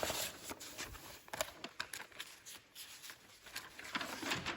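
Soft rustling and scattered light clicks of picture cards or prints being handled.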